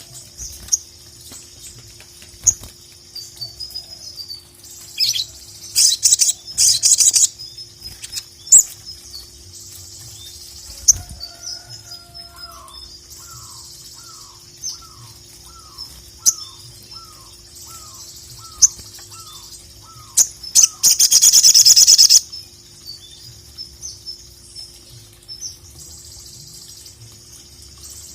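A sogon (sogok ontong) sunbird singing a fast, high-pitched chattering song. A lower call repeats about a dozen times in the middle, and loud rustling bursts come about five seconds in and again near the end, over a steady low hum.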